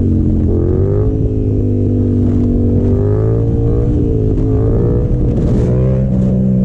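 Yamaha FZ-07's parallel-twin engine running under throttle during a wheelie attempt. Its note rises about half a second in, then wavers up and down with the throttle.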